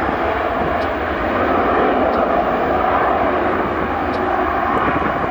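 Jet airliner engine noise, loud and steady.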